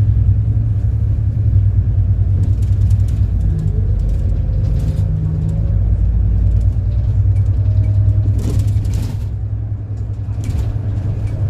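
City bus running along the road, heard from on board: a steady low engine rumble whose whine rises and falls with speed, with small rattles from the body. A short hiss comes about eight seconds in.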